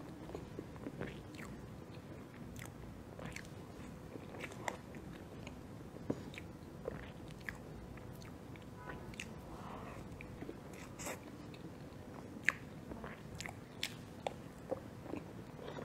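Close-miked mouth sounds of someone eating soft matcha cake: chewing, with irregular wet clicks and smacks.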